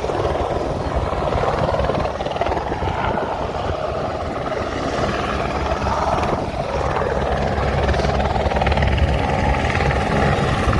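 Helicopter hovering, with steady rotor and engine noise.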